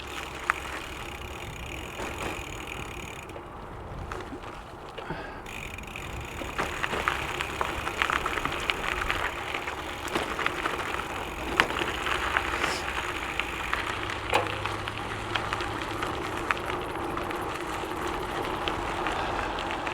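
Trek Checkpoint gravel bike rolling along a gravel trail: steady tyre noise with frequent small clicks and rattles, which grow busier from about six seconds in.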